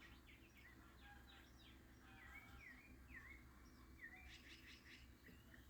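Faint backyard birdsong: small birds chirping in short repeated notes, with a few swooping calls midway and a quick cluster of chirps near the end, over a low steady background hum.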